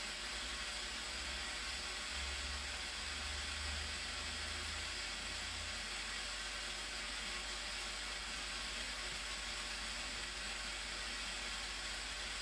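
Steady, unbroken rushing noise of the Blue Nile Falls, with no change in level throughout.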